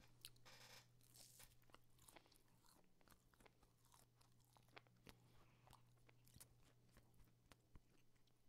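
Very faint chewing close to a microphone: scattered small mouth clicks and smacks as a man eats hangikjöt, Icelandic smoked lamb. A steady low electrical hum runs underneath.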